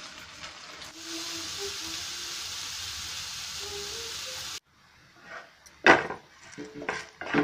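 Steady sizzle of potato slices frying in oil, which cuts off abruptly. Then comes one loud knock and a few lighter clicks as a wooden spatula turns the potato slices in the frying pan.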